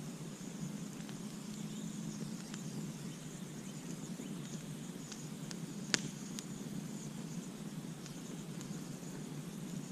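Campfire burning with a steady low rumble of flames and sparse crackles, with one sharp, louder pop about six seconds in.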